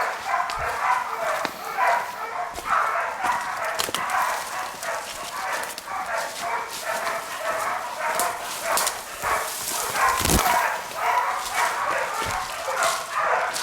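Pig-hunting bail dogs barking continuously in quick succession, the sound of dogs holding a feral boar at bay.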